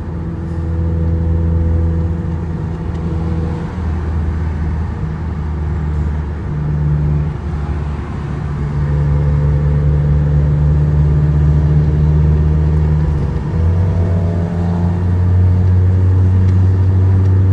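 Modified 2011 Mazda 3 2.5's four-cylinder engine, with headers and a Magnaflow cat-back exhaust, droning steadily at highway speed inside the cabin. Its pitch climbs slowly over the last few seconds as the car accelerates.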